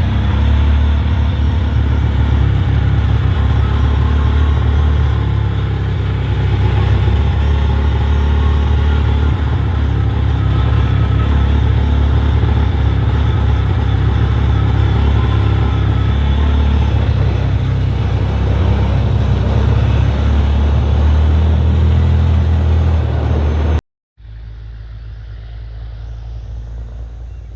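Side-by-side utility vehicle's engine running steadily while under way, a loud deep drone. About 24 seconds in it cuts off suddenly, and a much quieter steady background follows.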